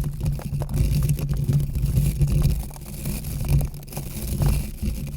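Close-up ASMR rubbing and scraping sounds with a heavy low rumble and many small crackles, continuous and uneven.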